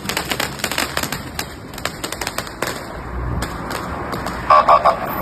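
Firecrackers crackling in a rapid string of sharp pops. Near the end a vehicle horn sounds in a few short blasts.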